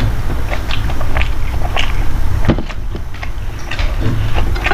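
Close-miked eating sounds: a person chewing soft food such as idli, sambhar and rice, with many short, irregular wet clicks and smacks of the mouth over a steady low rumble. One sharper click comes about halfway through.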